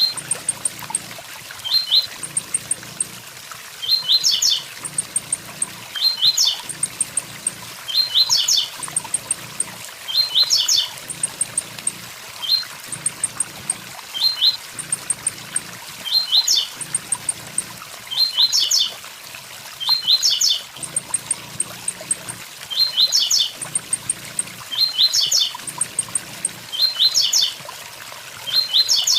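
Blue-black grassquit (tiziu) singing its 'tui tui zel zel' song: short phrases of a few quick high notes repeated about every two seconds. A waterfall rushes steadily underneath.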